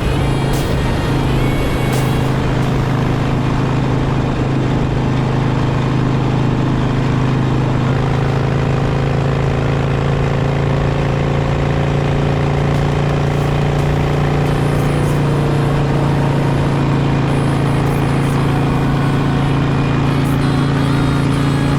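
Harley-Davidson Sportster's air-cooled V-twin engine running steadily at cruising speed, heard from on the moving motorcycle with heavy wind rush over the microphone; the engine note shifts slightly about eight seconds in.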